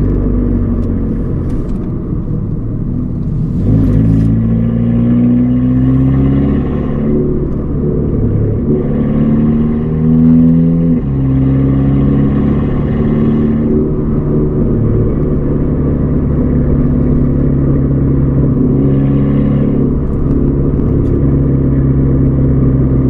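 Volkswagen Golf R Mk6's turbocharged 2.0-litre four-cylinder running through its new valved cat-back exhaust. The revs climb and fall a couple of times, drop sharply about eleven seconds in, then hold steady.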